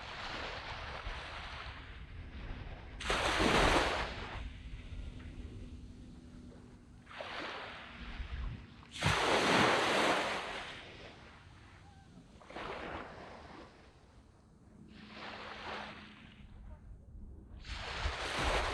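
Waves breaking and washing up on a sandy beach, one after another every few seconds, each a rushing swell that fades back; the biggest come about three and about nine seconds in.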